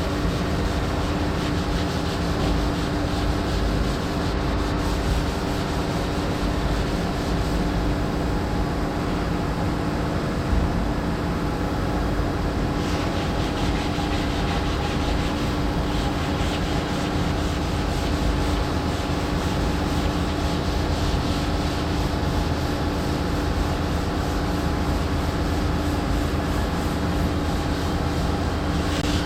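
Power sander running steadily against body filler on a vehicle panel: an even rubbing noise over a constant motor hum.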